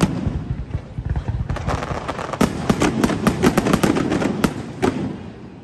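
Aerial fireworks going off: a low continuous rumble of bursts with a dense run of sharp crackling bangs in the middle, thinning out and fading near the end.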